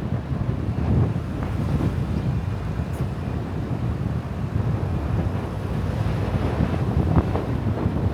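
Car driving: a steady, fluttering low rumble of road noise and wind buffeting the microphone.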